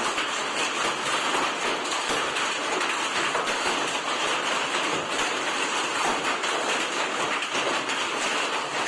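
Hailstorm: heavy rain and hailstones pelting down, a steady dense hiss of countless small impacts.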